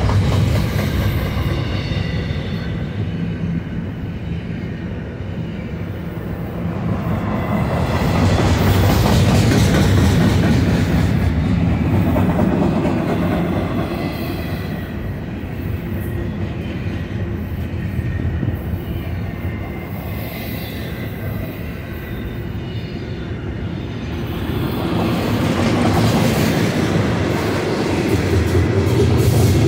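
Double-stack container train's well cars rolling past: a steady rumble of steel wheels on rail that swells louder about eight seconds in and again near the end, with a faint high wheel squeal.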